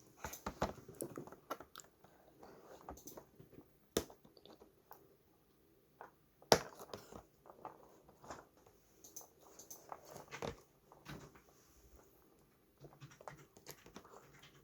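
Handling noises from small objects: irregular clicks, taps and light rustling, with a sharp knock about four seconds in and a louder one about six and a half seconds in.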